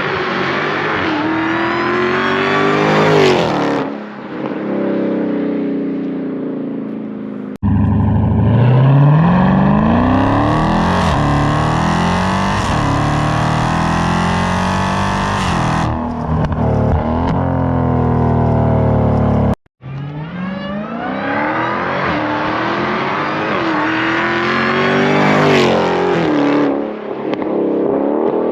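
Dodge Charger Hellcat's supercharged 6.2-litre V8 with its mid-mufflers deleted, run at full throttle in hard acceleration passes. The engine note climbs steeply and drops back several times, with abrupt jumps where separate passes are cut together.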